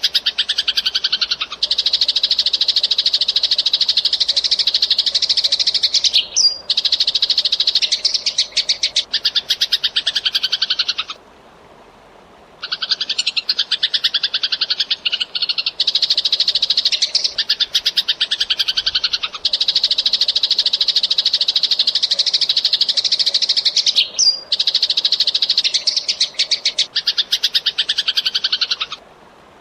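Eurasian tree sparrow chattering in fast, dense runs of high chirps lasting several seconds each, with a pause of about a second and a half around eleven seconds in and another just before the end.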